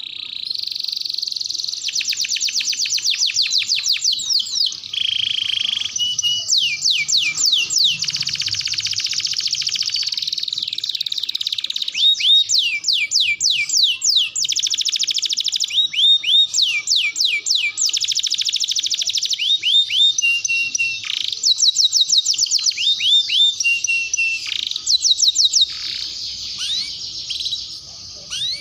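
Canary singing a long continuous song of rapid trills: runs of fast, repeated downward-sweeping notes alternating with steadier rolling phrases, high-pitched, with the loudest trill bursts in the second half.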